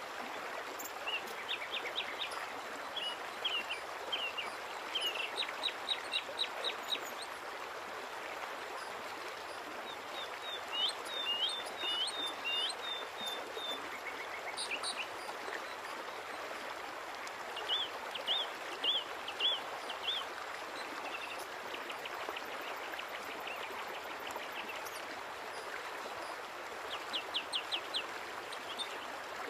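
Small songbirds chirping in repeated quick bursts of short high notes, over a steady background hiss.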